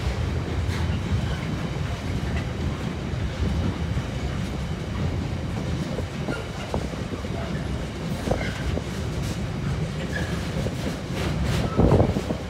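Loaded intermodal container wagons of a freight train rolling past on the main line: a steady low rumble with repeated wheel knocks over the track. A louder clatter comes just before the end.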